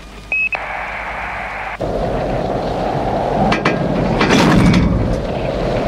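A short electronic beep from a computer terminal, then a sudden cut to the loud, steady rumble of a runaway train rushing along the track, with sharp metallic cracks and a louder crashing burst about four seconds in.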